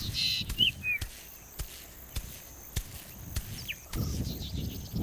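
Wild birds calling in short, hooked chirps over an outdoor background, with scattered sharp clicks and a low rumble near the end.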